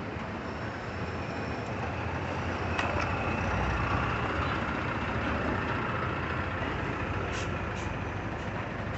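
Truck engine running steadily with a low rumble, with a few faint clicks.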